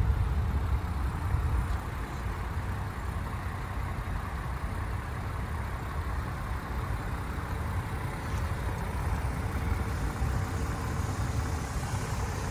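Land Rover Defender 110's engine idling, a steady low rumble.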